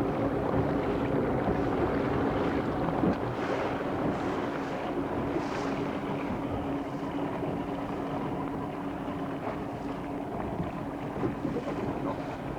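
A boat's motor running steadily at one pitch, with wind buffeting the microphone and the noise of water.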